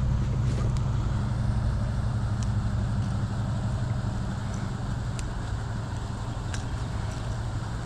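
Steady low motor hum, like an engine idling, with a few faint light clicks from pliers working a crankbait's hooks out of a bass's mouth.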